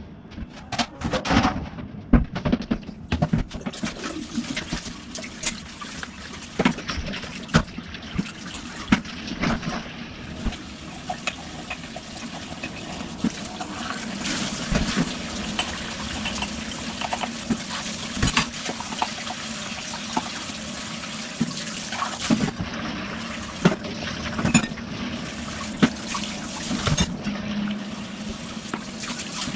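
Water running steadily from a kitchen tap into the sink, with frequent knocks and clinks of items being handled while washing up.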